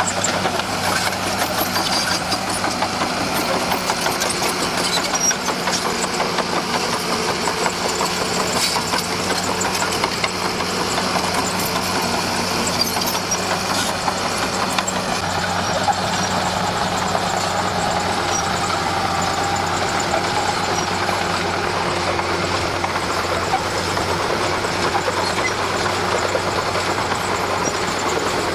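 Komatsu D41P crawler bulldozer's diesel engine running steadily, with scattered short clanks over it.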